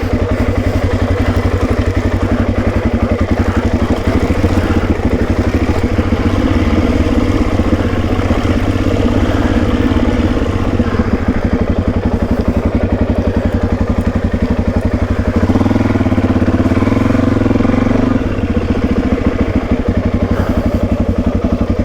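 Suzuki DRZ400E dirt bike's single-cylinder four-stroke engine running steadily at low revs, its firing pulses rapid and even. It gets a little louder for a couple of seconds about fifteen seconds in.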